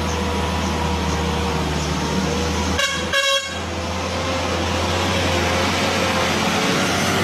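A truck's engine running steadily, with two short horn honks close together about three seconds in.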